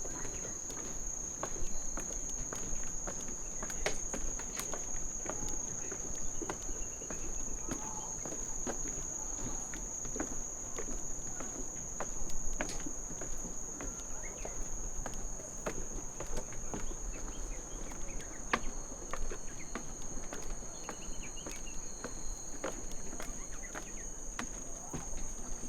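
Steady high-pitched insect chorus holding one unbroken tone, with irregular soft footsteps on a trail underneath.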